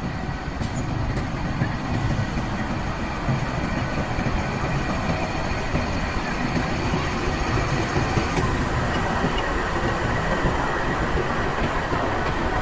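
Green Line Express passenger train running on the rails: a steady rumble of wheels and carriages that builds slightly over the first few seconds.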